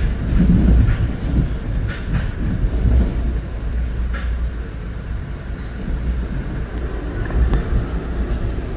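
Metro-North commuter train running, heard from inside the passenger car: a steady low rumble, with a few sharp clicks in the first half.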